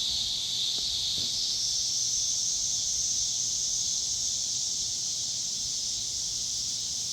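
A steady, high-pitched chorus of insects, a continuous shrill drone.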